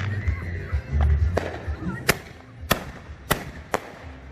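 Fireworks going off: deep booms in the first second or so, then a run of sharp cracks about every half second.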